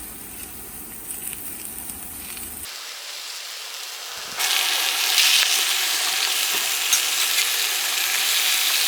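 Food frying in a hot pan, a steady sizzle that turns loud after a cut about four seconds in.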